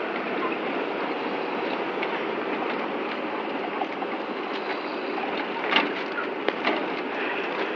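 Steady running noise inside a moving train carriage, with a few short sharp clicks about six seconds in.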